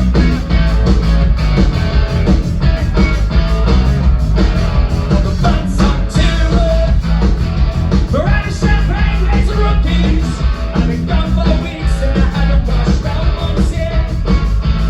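A rock band playing a punk rock song: guitars, bass and drums with a singing voice over them.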